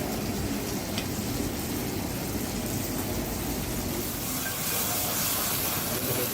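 Claypot chicken rice sizzling and hissing steadily as it cooks over the stove, with a faint click about a second in.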